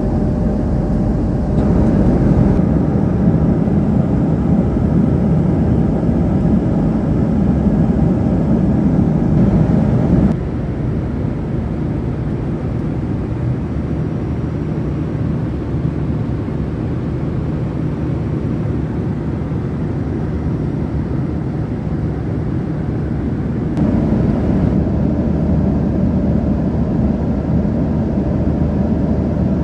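Steady drone of a moving vehicle heard from inside the cabin, a low hum under even road or air noise. Its loudness and tone shift abruptly about ten seconds in and again near the end.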